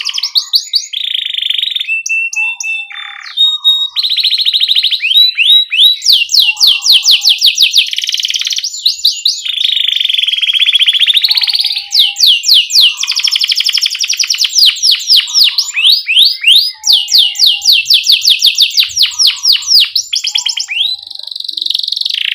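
Domestic canary singing a long, fast song: rapid rolling trills of many quickly repeated sweeping notes, alternating with smoother warbled phrases and short lower chirps, with only brief pauses.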